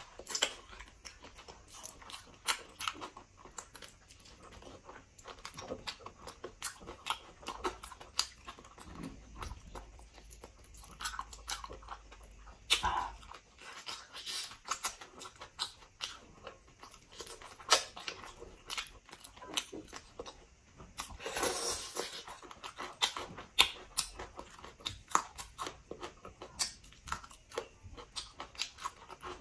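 Close-miked eating of pork leg by hand: a steady run of wet chewing, lip-smacking and sticky finger clicks as meat and skin are bitten and pulled off the bone, with one longer, louder stretch about three-quarters of the way through.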